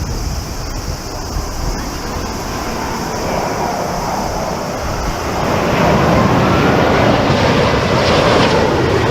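Jet engines of an approaching Airbus A380 (Rolls-Royce Trent 900), growing louder from about halfway through with a faint rising whine, over wind buffeting the microphone.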